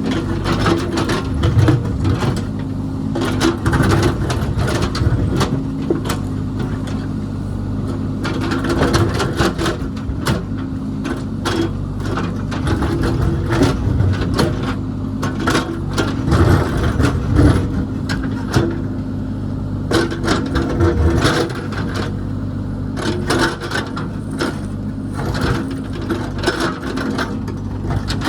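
Heavy construction machine's engine running steadily under load, with frequent sharp knocks and clanks of metal working against rock and soil.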